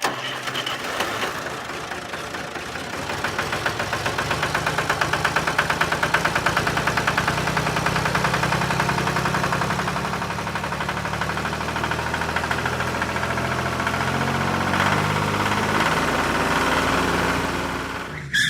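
Small engine running at a steady speed with a fast, even pulse.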